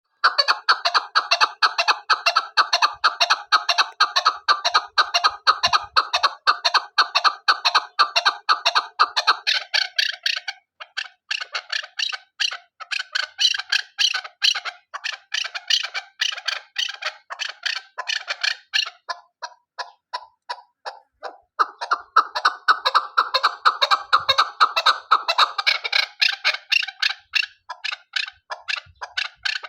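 Female chukar partridge calling: a long, fast run of short repeated clucking notes, several a second, louder and fuller in the first third and again about three quarters of the way through.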